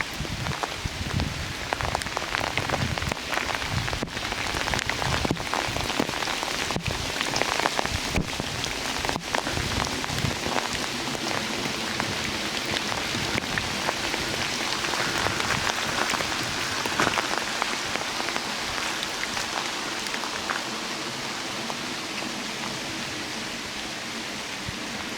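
Steady rain falling in a redwood forest, with many separate drops tapping sharply close by over the constant hiss of the rain.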